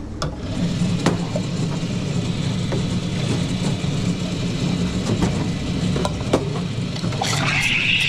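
Coffee machine motor running with a steady low hum and scattered clicks. Near the end a steam wand starts hissing.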